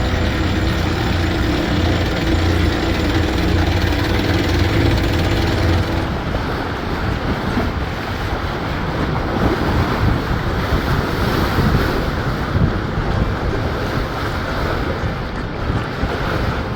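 Wind buffeting the microphone and water rushing past a sailboat under way. A steady low hum runs under it for about the first six seconds.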